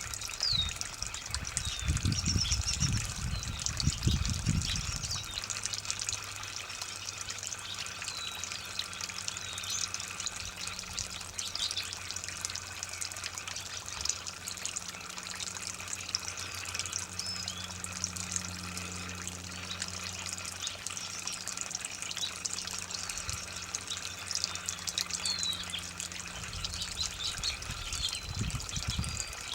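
Water running steadily while watering a tree, splashing and trickling, with frequent short high bird chirps throughout. A low rumble comes in the first few seconds and again near the end.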